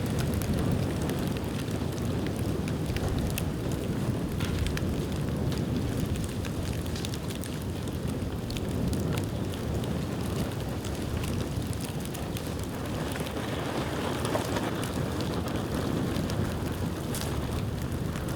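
Bonfire of dry bamboo burning: a steady rushing of flames with frequent small, irregular crackles.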